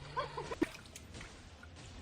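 A dog's short, high yips, a few in quick succession in the first half-second, then only faint background hiss.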